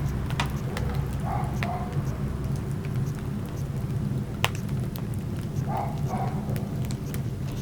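Wood fire crackling: irregular sharp pops and snaps over a steady low rumble of the flames, with one louder pop about halfway through.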